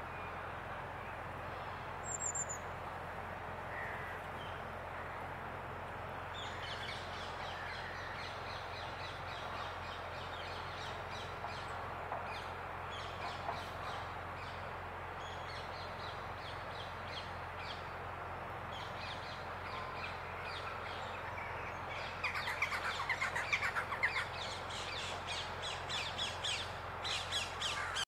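Several wild birds calling over a steady low background hum, with short repeated calls through the middle and a denser, louder run of harsh calls in the last six seconds.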